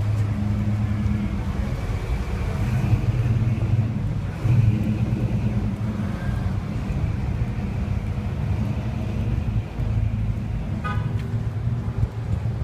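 Car engines running in slow street traffic, a steady low rumble. A short horn-like toot sounds near the end.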